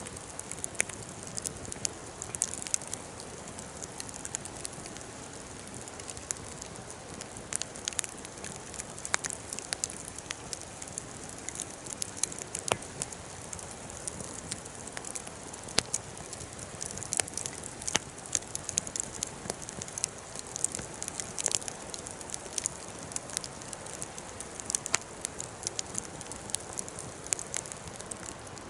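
Wood fire crackling, with frequent irregular sharp pops over a steady hiss.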